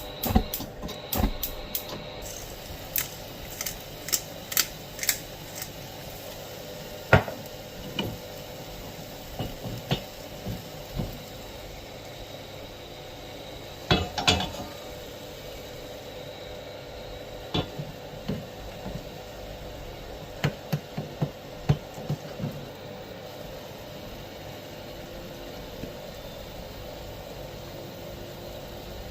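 Dishes and cutlery being handled: scattered clinks and knocks, some in quick runs, over a steady faint hum.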